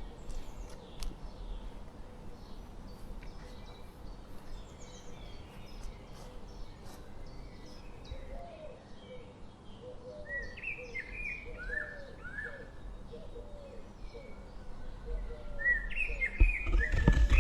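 Several songbirds chirping and singing, the calls growing busier in the second half, over a steady low rumble, with a few louder low thumps near the end.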